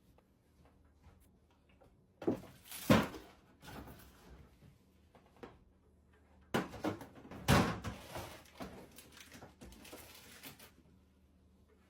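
Knocks, clatter and rustling of containers and shelves being handled in a refrigerator. There is a short burst about two seconds in and a longer one from a little past halfway.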